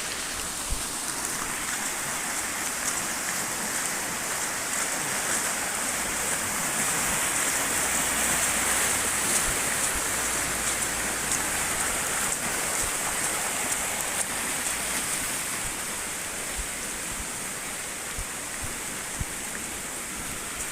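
Swollen, fast-flowing floodwater of a small river rushing steadily, mixed with heavy rain, swelling a little mid-way. Scattered sharp ticks of raindrops striking the camera run through it.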